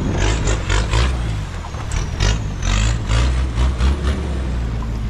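Off-road 4x4 truck's engine working hard as it climbs a rough, muddy hill, with irregular short knocks and scrapes a couple of times a second.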